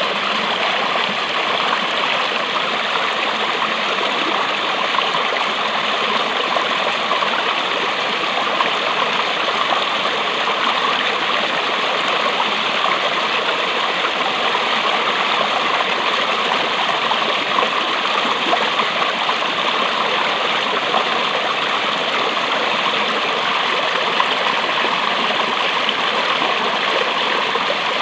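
Fast-flowing water rushing steadily, as from a stream or cascade, an unbroken hiss with no pauses.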